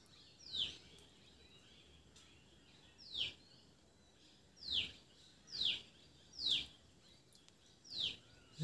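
A bird calling repeatedly: six short calls, each sweeping quickly down in pitch, spaced irregularly one to two and a half seconds apart.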